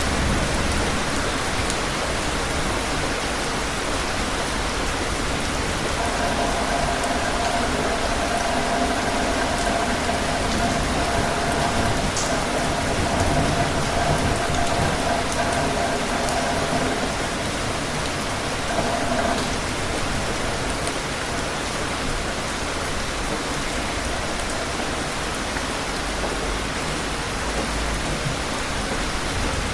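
Steady rain falling and pattering on surfaces. A faint steady tone sits under it from about six seconds in until about two-thirds of the way through.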